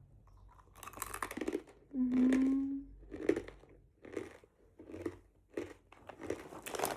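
Coconut milk murukku, a crisp fried spiral snack, being bitten and chewed close to the microphone: a series of sharp crunches about every half to one second, with a short hummed "mmm" about two seconds in.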